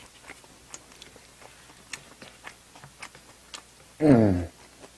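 A person chewing food with a full mouth, close to the microphone, with many small wet mouth clicks and smacks. About four seconds in comes a short, loud voiced sound from the eater.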